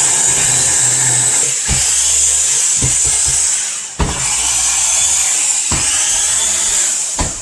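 Electric blender motor running steadily while mixing seasonings. It stops for a moment just under four seconds in, starts again, and stops near the end.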